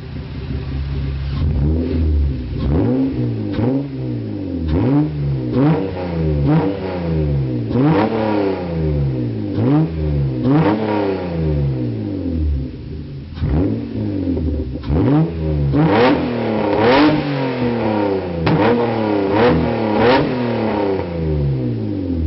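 Toyota 2JZ-GE straight-six, running through a 2.5-inch straight-through exhaust with a Lukey muffler and no catalytic converters, revved repeatedly in quick blips about a second apart, the pitch rising and falling each time. It idles briefly at the start, pauses once midway, and drops back toward idle near the end.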